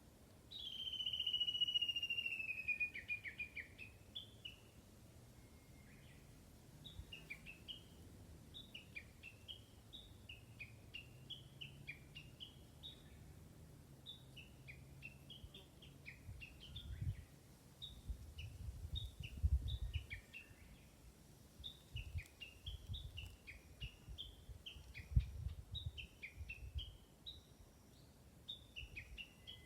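Wild birds calling. About half a second in comes one loud call that slides downward, then a long run of short high chirps, each dropping in pitch. Low rumbles come and go in the second half.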